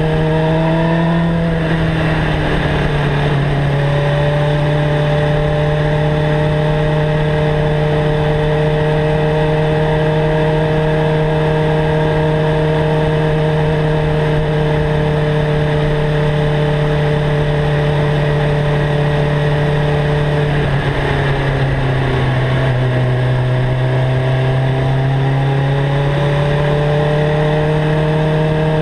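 Suzuki GSX-R 750 inline-four with a Mivv GP exhaust running under steady throttle while cruising. The revs dip slightly about a second in, then hold. Around two-thirds of the way through they drop, then climb back as the rider accelerates again.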